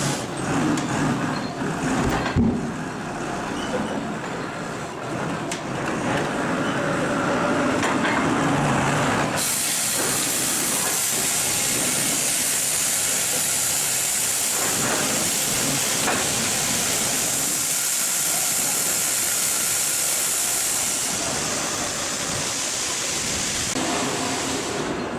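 Sawmill machinery running steadily. A loud, bright hiss starts suddenly about nine seconds in and fades a little after twenty seconds.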